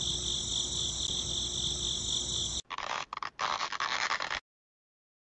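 High-pitched, pulsing insect chirring like crickets, cut off suddenly about halfway through. It is followed by short broken rubbing and scraping as the clear plastic tube is pushed onto the pump's brass outlet.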